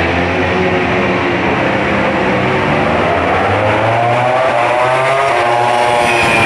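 MotoGP racing motorcycle engines at high revs, one bike accelerating with its pitch climbing from about halfway in.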